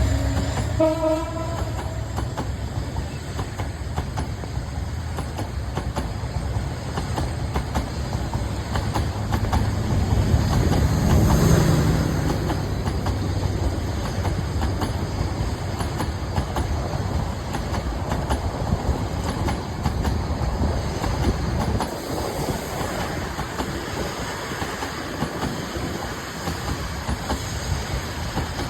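Suborno Express intercity passenger train running on the track, its wheels clattering rapidly over the rail joints under a steady rumble. A short horn-like tone fades out in the first second or so; the rumble swells about eleven seconds in and the low part drops away after about twenty-two seconds.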